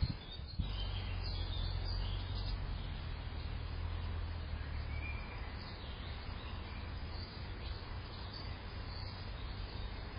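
Faint, scattered bird chirps over a steady low rumble of outdoor background noise, the rumble heavier in the first half.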